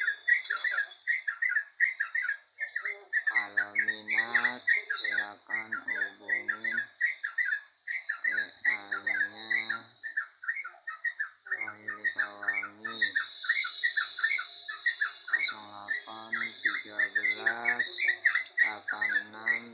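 Yellow-vented bulbul singing a fast run of short chirps, about three a second, with no break. Several times a lower, rougher sound comes in over it for a second or more.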